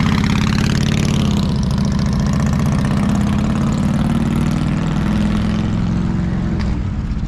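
A vehicle engine idling close by, a steady low running sound with rapid even firing pulses. It eases off slightly near the end.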